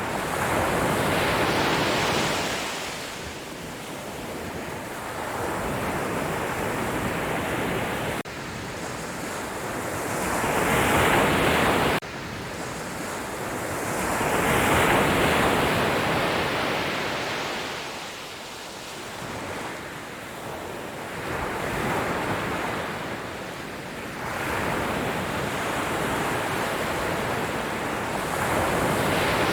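Sea waves breaking and washing up a shore, the surf swelling and falling away every few seconds. The level jumps suddenly twice partway through.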